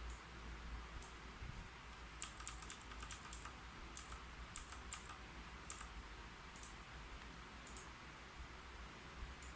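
Keyboard typing: a quick run of key clicks from about two seconds in to almost six seconds, with a few single keystrokes before and after.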